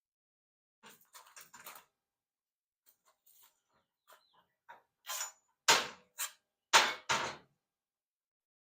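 A run of knocks and clatter from handling tools and parts during scooter exhaust work: a few faint clicks, then four louder knocks in the second half.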